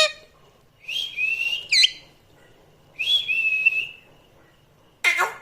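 Parrot whistling: two similar high calls about two seconds apart, the first ending in a quick sharp up-and-down whistle, then a short louder call near the end.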